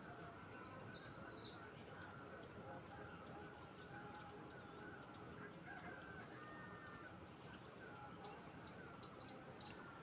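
A songbird repeating a short, high, rapid song phrase three times, about four seconds apart, over faint steady background sound.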